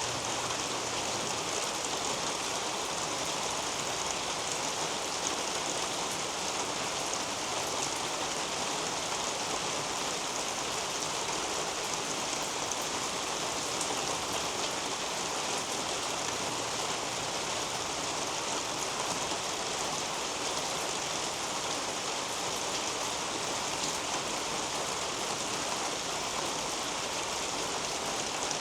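Steady rain falling on the leaves of a potato patch and on a roof overhead: an even hiss with a dense patter of individual drops.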